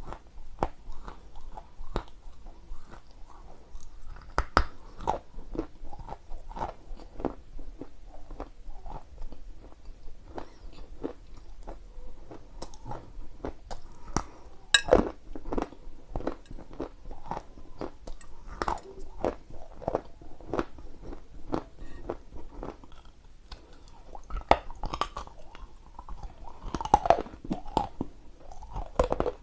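Close-up crunching and chewing of dry edible clay: a dense, irregular run of crisp crackles with a few sharper bites, the loudest about halfway through and near the end.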